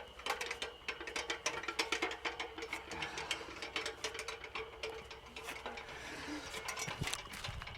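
Rapid, irregular mechanical clicking, with a faint steady hum underneath.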